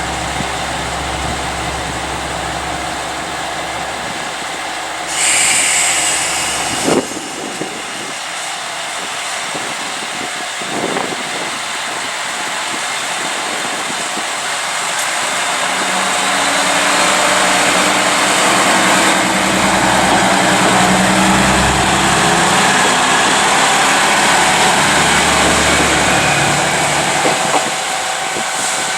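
A Japanese diesel railcar at the station: its engine runs steadily, with a short hiss of air about five seconds in and a click soon after. From about halfway through, the engine works harder and gets louder, and it stays loud to the end.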